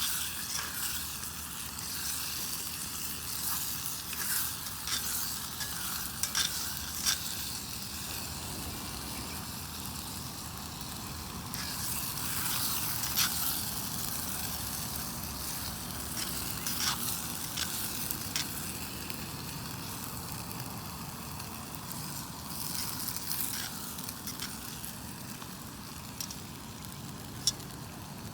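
Food frying in a pan, a steady sizzle with scattered sharp clicks and scrapes of stirring.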